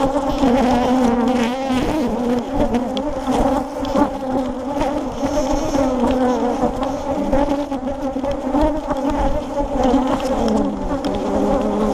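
A mass of honey bees buzzing around an opened hive, a dense, steady hum that does not let up. The bees are agitated by the inspection.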